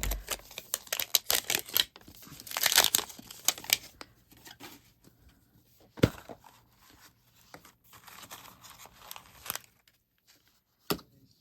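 A toy capsule's packaging wrapper being torn open by its pull tab and crinkled, with a flurry of tearing and rustling in the first three seconds, then sparser crinkles and a sharp click about six seconds in.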